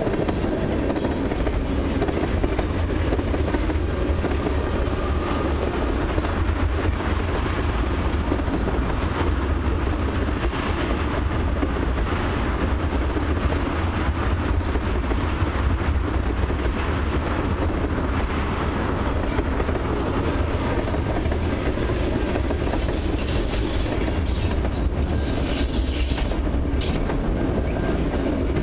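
Freight train cars rolling steadily past at close range: tank cars and then autorack cars, their steel wheels running on the rails in an even, continuous noise.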